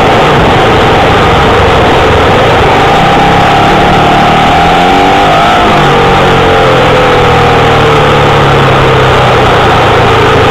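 Speedway bike engine, heard very loud and overloaded from an onboard camera, running as the bike rolls out onto the track; about four to five seconds in the revs climb sharply, then ease off slowly.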